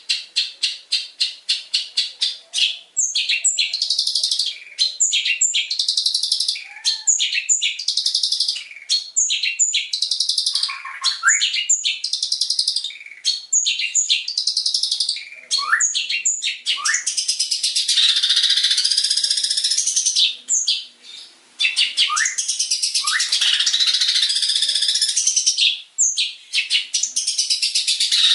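Long-tailed shrike (cendet) singing a fast, harsh, chattering song. It opens with a rapid run of clicking notes, about seven a second. Dense scratchy phrases with quick upward sweeps follow, with only brief breaks.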